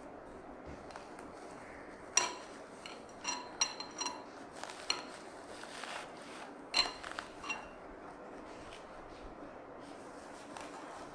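Metal scissors snipping, a scattered series of about seven sharp metallic clicks and clinks, some with a brief high ring, as excess moss is trimmed.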